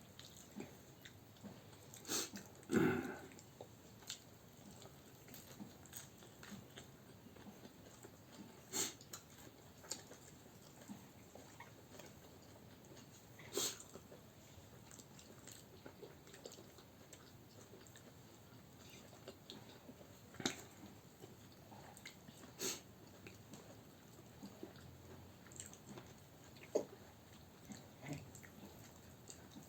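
Quiet eating sounds: faint chewing with a few sharp clicks and knocks scattered through, the loudest about two to three seconds in.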